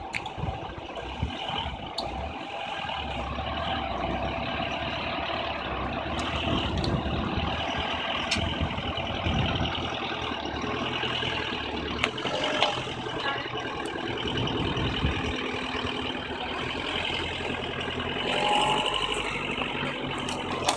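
Engine of a heavy vehicle running steadily during a boat haul-out, with a few sharp clicks or knocks.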